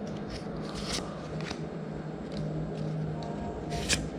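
Trading cards being handled and flipped through by hand: a handful of short, soft flicks and slides of card stock, over a low steady hum.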